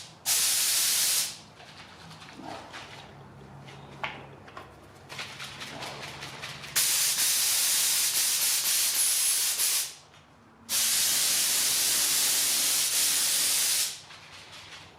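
Spray gun spraying 2K acrylic primer on compressed air: one short hiss at the start, then two long steady hisses of about three seconds each in the second half. Quieter gaps with faint clicks lie between them. The primer is too thick for the gun, which the painter says was spraying dry.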